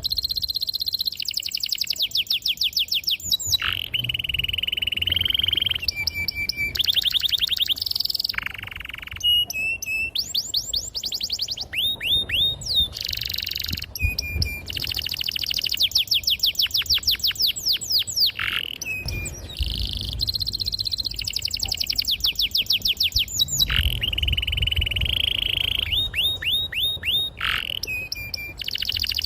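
Domestic canary singing a long, unbroken song. Fast rolls of rapidly repeated sweeping notes alternate with held buzzy notes.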